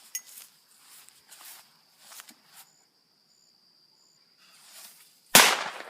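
A thrown firecracker going off with a single sharp bang near the end, after a few seconds of quiet waiting.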